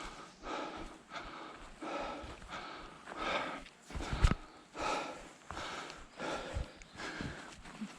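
A hiker breathing hard, rough breaths in and out repeating about every three-quarters of a second, with a couple of low thumps.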